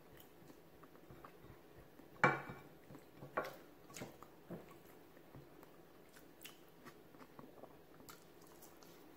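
Faint chewing and wet mouth sounds of someone eating braised beef by hand, with a few brief louder smacks between about two and four and a half seconds in.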